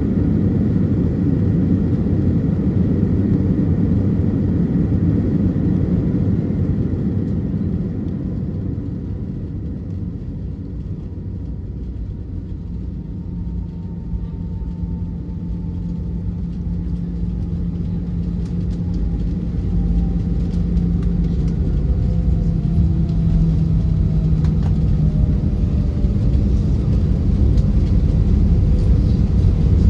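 Cabin noise inside an Airbus A320-212 on its landing at Detroit, heard from a forward first-class seat: a steady rumble of the CFM56 engines and airflow. It dips about ten seconds in and then builds back up, louder through the second half, with a faint whine slowly falling in pitch.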